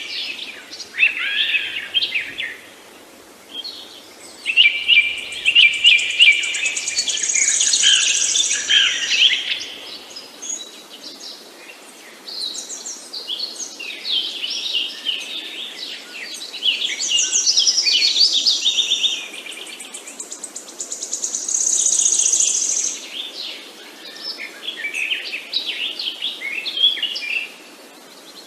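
Several songbirds singing and chirping at once, with overlapping high trills and twitters coming in bursts, over a faint steady hiss.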